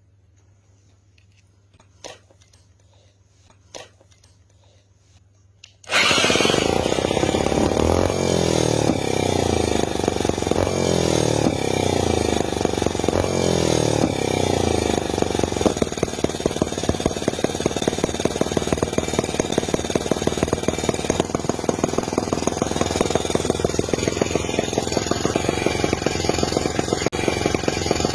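Miniature 2.2cc two-cylinder four-stroke model engine. After a few faint clicks it starts abruptly about six seconds in and runs with a fast buzz. Over the next several seconds its pitch sweeps downward again and again, then it settles into steady running.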